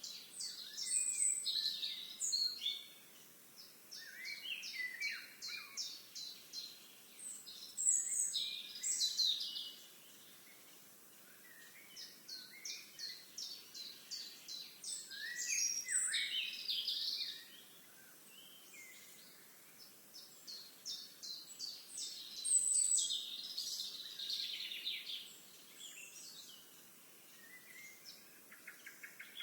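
Songbirds singing, with phrases repeating every few seconds. Each phrase is a quick run of high, clipped notes followed by a jumbled warble.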